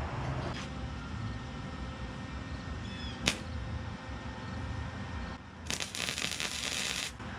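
A MIG welder tacking an exhaust pipe joint: a crackling hiss about a second and a half long near the end, starting and stopping abruptly. It sits over a steady low rumble, with a single sharp click about three seconds in.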